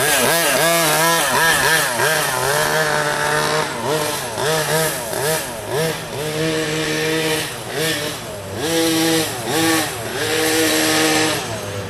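Radio-controlled car's motor revving up and falling back over and over as the car is driven around a track, its pitch rising and dropping in quick arcs between short steady runs.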